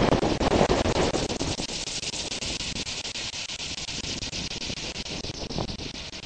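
Wind buffeting the microphone, with gusty low rumbling that eases about a second and a half in, leaving a steady high hiss.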